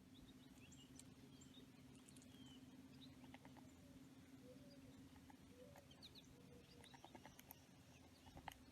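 Faint short bird chirps and light scattered clicks, which grow more frequent near the end, over a steady low hum.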